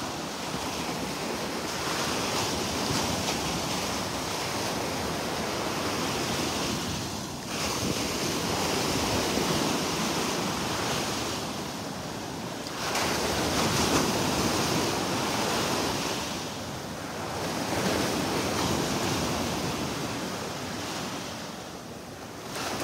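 Gulf of Mexico surf breaking and washing up the beach, the rush of water swelling and fading every few seconds, with some wind on the microphone.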